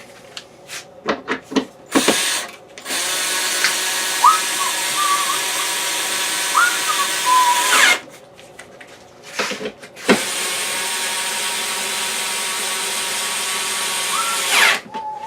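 Power drill driving quarter-20 cap-head bolts into threaded holes in a wooden jig: a few clicks, then two steady runs of the motor, each about five seconds long.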